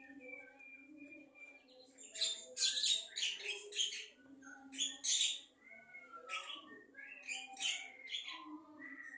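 A songbird singing: a thin whistled note, then clusters of harsh, rapid chirps from about two seconds in, loudest around the third and fifth seconds, with more chirping near the end.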